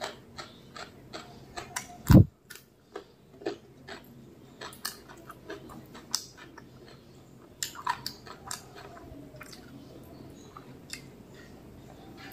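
Close-up eating sounds of mutton biryani eaten by hand: chewing with irregular wet mouth clicks and smacks. There is one loud, deep thump about two seconds in.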